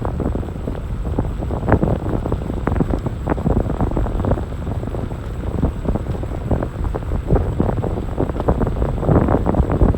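Wind buffeting the microphone: an irregular, gusty low rumble that swells near the end.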